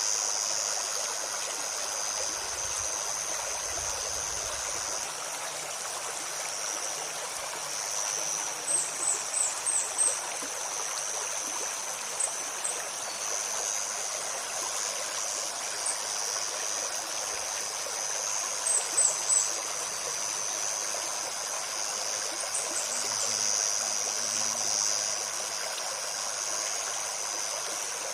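A shallow forest stream babbling steadily over stones, with a continuous high-pitched buzz above it. Short high bird chirps come in quick runs of three to five, about a third of the way in and again past the middle.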